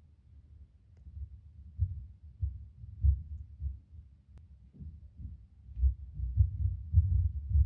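A series of dull, low knocks or thuds of unknown origin in an apartment, uneven in timing: a few spaced blows in the first half, then a denser run of thuds in the second half.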